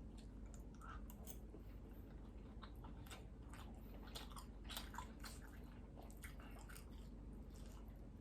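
A person chewing a mouthful of longganisa sausage close to the microphone: a run of faint mouth clicks and smacks, busiest a little past the middle.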